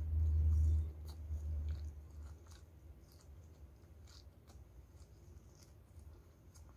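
Close-miked chewing and small wet mouth clicks of someone eating crispy fried chicken with rice and noodles by hand. A dull low thud comes in the first second.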